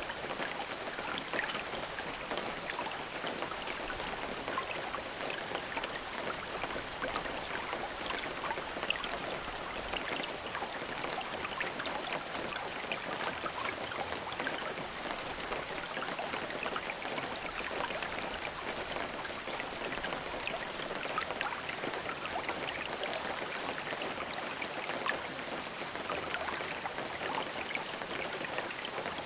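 Steady rain falling, with many small drops pattering on a surface in a constant hiss.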